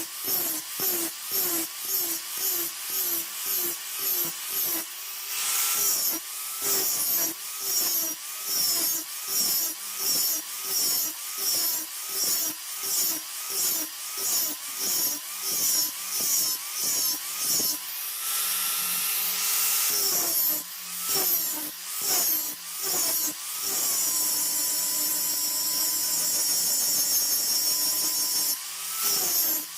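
Electric power tool working a workpiece in rhythmic strokes, about two a second, its motor pitch dipping under load on each stroke. It runs at a steady pitch for a couple of seconds past the middle and again near the end.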